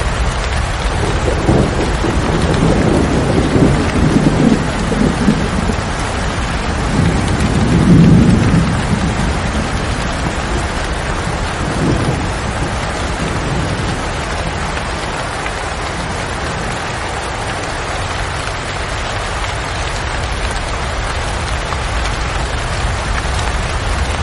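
Steady rain falling, with thunder rumbling low, building in the first few seconds and loudest about eight seconds in, then a smaller roll near twelve seconds before the rain carries on alone.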